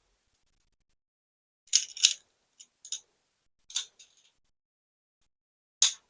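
Hard plastic LEGO pieces clicking and clacking as they are handled: a pair of sharp clicks about two seconds in, a few lighter taps after, another pair a little later, and one last click near the end.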